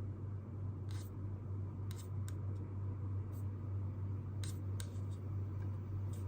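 Steady low hum of room background with a handful of short, light clicks and scratches from work at a desk, scattered irregularly.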